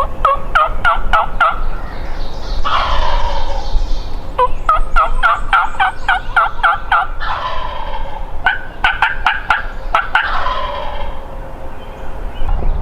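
Wild turkey calls. There are three quick runs of sharp yelping notes, about five a second, and each run is followed by a gobbler's gobble about a second long.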